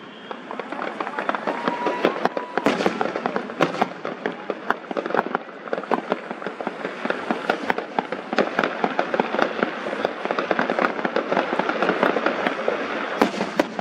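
Fireworks going off in quick succession: a dense run of sharp bangs and crackles, many a second.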